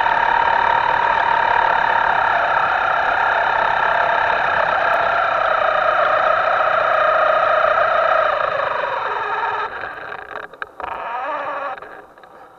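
Electric motor of a Himoto radio-controlled FPV boat running with a steady whine that slowly shifts in pitch, then cutting out and breaking up in stutters about ten seconds in.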